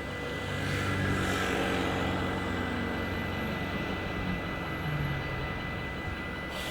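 A vehicle rumbling past, its low motor note slowly sinking in pitch, with brief whooshing swishes about a second in and again at the end, over a steady high-pitched tone.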